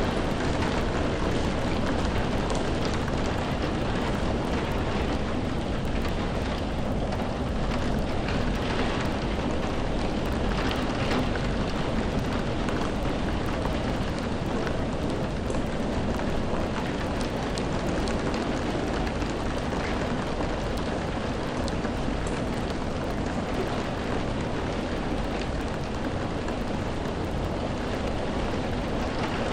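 Steady rainfall: a continuous even hiss of rain with scattered individual drops hitting a surface.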